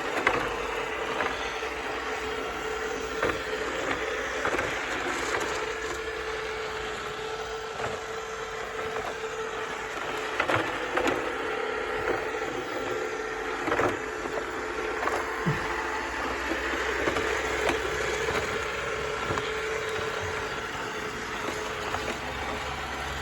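Roborock S6 Pure robot vacuum running, a steady motor hum with scattered clicks and ticks as it sucks up very fine fireplace dust and grit.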